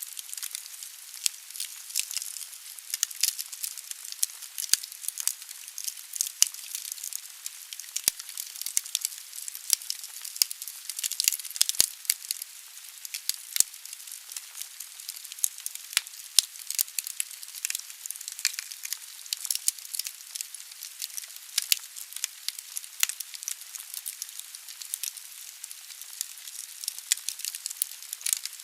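Wood fire burning in a fireplace: a steady high hiss with many small, irregular crackles and pops from the burning logs.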